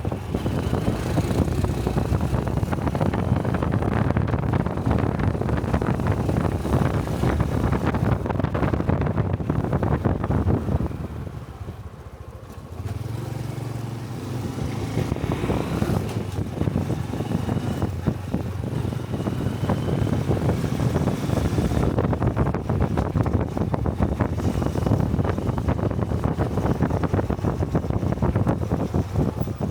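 Honda Cub 125 cc single-cylinder motorcycle engine running on the road, with wind rushing over the helmet-mounted microphone. About a third of the way in it eases off, dropping to a low idle-like note for a couple of seconds, then pulls away again and runs steadily.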